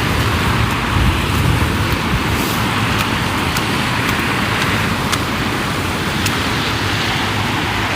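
Wind buffeting the microphone: a steady rushing noise with a low, fluttering rumble underneath.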